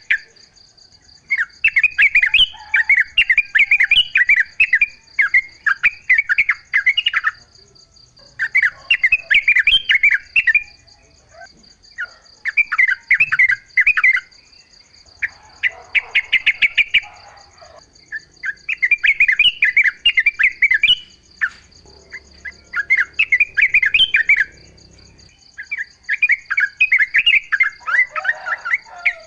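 Yellow-vented bulbul (trucuk) singing: a run of loud, bubbly chattering phrases, each a second or more long, repeated with short pauses. A steady high insect buzz runs underneath.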